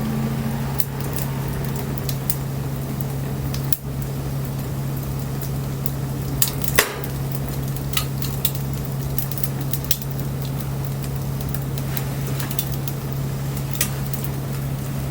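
Wood bonfire burning: a steady hiss and sizzle with irregular sharp crackles and pops, the loudest pair about six and a half to seven seconds in, over a steady low hum.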